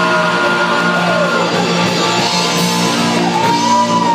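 Rock band playing live, an instrumental stretch with electric guitars ringing over held notes, some notes bending up and down in pitch.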